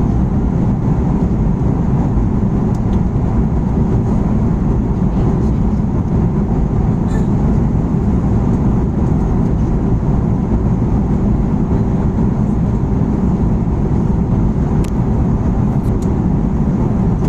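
Steady, loud low rumble of vehicle noise with no change in level, and a few faint ticks over it.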